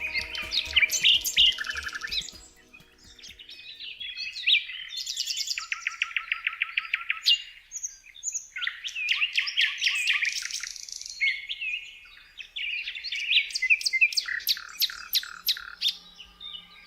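Songbirds singing and chirping in quick, varied phrases, including a rapid, evenly repeated trill of about ten notes a second lasting a couple of seconds.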